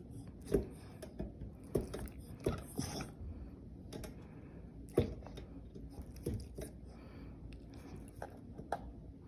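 A small dog chewing, heard as faint, irregular clicks and soft crunches a second or so apart.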